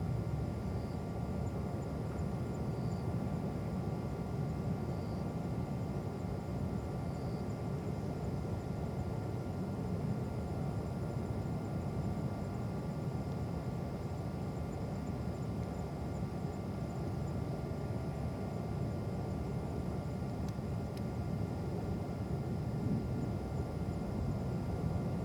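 Steady low outdoor rumble of distant jet aircraft and airport traffic heard from high ground, with faint steady high tones above it.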